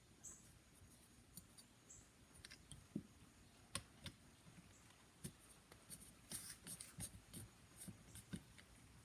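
Faint clicks, taps and light scraping as small metal parts of a phonograph tonearm pivot are handled and fitted back together, with a couple of sharper ticks and a short burst of scratching.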